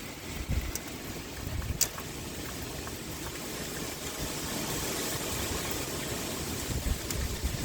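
Steady pouring rain with wind gusting low underneath, swelling a little toward the middle, and a few sharp drip clicks.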